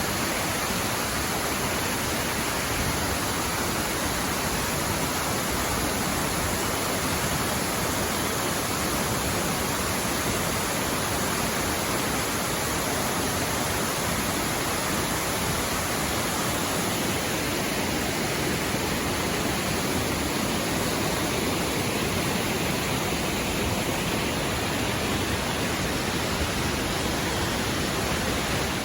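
Waterfall close by: falling water rushing in a dense, steady, unchanging wash of noise.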